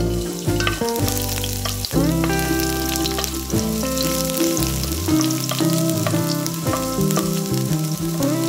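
Chopped garlic and sliced red chillies sizzling in hot oil in a wok while being stirred with a wooden spoon, over background music.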